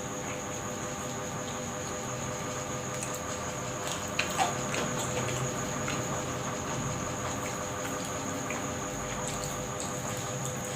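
Flour batter frying in hot oil in a pan: a steady sizzle with two sharp clicks about four seconds in.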